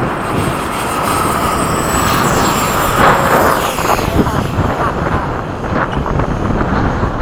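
Freewing 90mm electric ducted-fan F-15 jets flying past, a rushing fan noise with a thin high whine that climbs a little and then falls as they pass, with wind buffeting the microphone.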